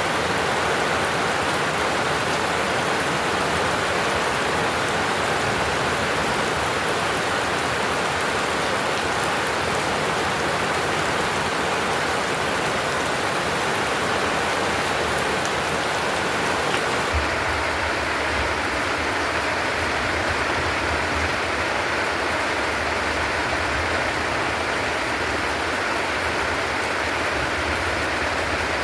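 Heavy downpour: a dense, steady roar of rain. About 17 seconds in the sound changes, with less high hiss and a stronger low rumble underneath.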